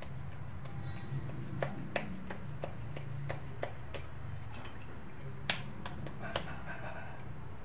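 Hands pressing and kneading a ball of jowar (sorghum) flour dough, with scattered sharp clicks as the metal bangles on her wrists knock together, over a steady low hum.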